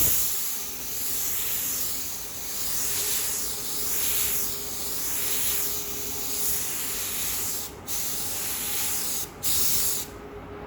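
Compressed-air paint spray gun hissing as it lays on a coat of paint, swelling and fading with each pass. The trigger is let off briefly twice near the end, and the spray stops just before the end.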